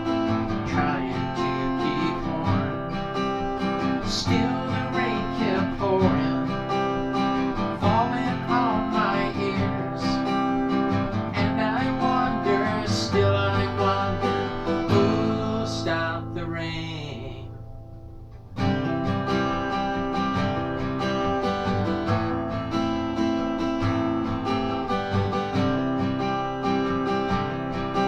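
Acoustic guitar strummed in an instrumental break of a country-rock song, with no clear vocal. About two-thirds of the way through, the music fades for a moment, then comes back suddenly.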